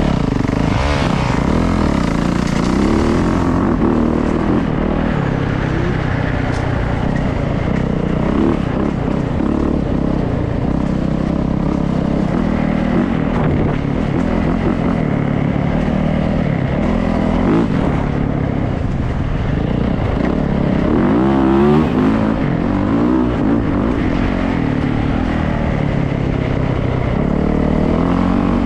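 Yamaha YZ450F dirt bike's four-stroke single-cylinder engine running hard under throttle, its pitch rising and falling as it revs up and backs off, with a strong rev around three quarters of the way through.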